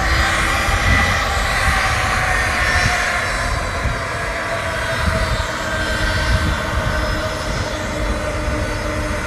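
Airliner passing low overhead on its landing approach, a loud engine rush with a slowly falling whine, loudest in the first few seconds and then easing.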